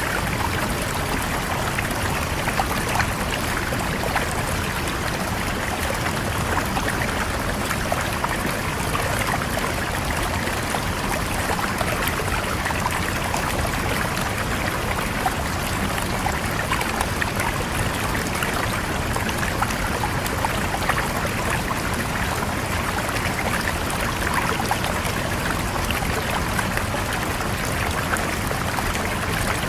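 River water flowing steadily, an even rush of running water with many small splashes and trickles through it.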